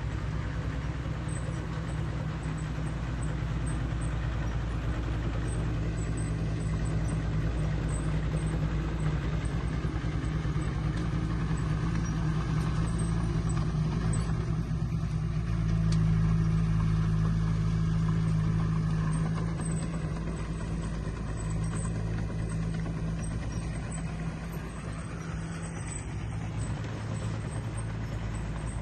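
Heavy construction machine's diesel engine running steadily under work, with a low drone that grows louder for a few seconds just past the middle and then eases off.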